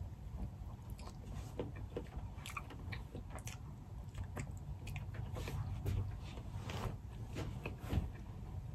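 Close-up mouth sounds of eating soft shellfish meat dipped in sauce: wet chewing and lip smacks, many small irregular clicks, over a low steady hum.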